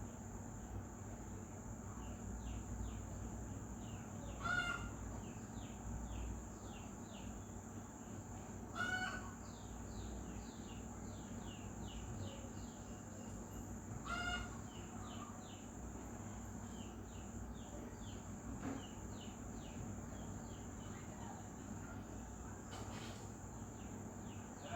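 Bird calls outdoors: a louder pitched call sounds three times, spaced about five seconds apart, over rapid high chirping and a steady high insect trill such as crickets.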